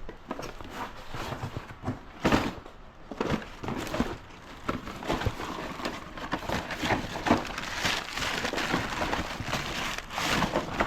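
Rummaging through boxes and bins of electrical fittings: repeated knocks and clatter of parts being moved, with rustling in between.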